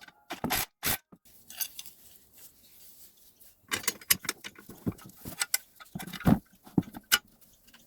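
Small metal hardware (washers, nuts and bolts) clinking and scraping in handling while blades are fitted to a Victa rotary mower. A few knocks about half a second in, then a busier run of clicks and clinks from about four to seven seconds in.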